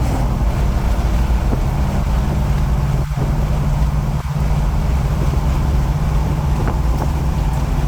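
Cabin sound of a modified 1953 GMC panel truck under way: its engine running steadily while cruising, with road and wind noise through the open windows. The level dips briefly twice, a little after three seconds and just after four.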